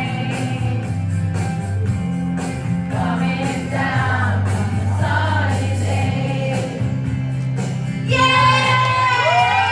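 A group of voices singing a song together over an instrumental accompaniment with steady low bass notes; the singing grows louder and stronger about eight seconds in.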